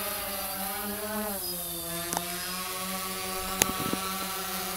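DJI Phantom 2 Vision quadcopter hovering, its four electric motors and propellers buzzing steadily, the pitch wavering slightly as the motors hold it in place. A sharp click sounds about three and a half seconds in.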